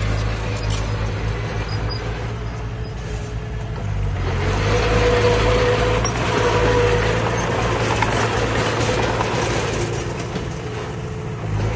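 Heavy diesel earthmoving machinery running steadily with a low engine drone. From about four seconds in, a louder rushing noise joins it for several seconds, then eases off.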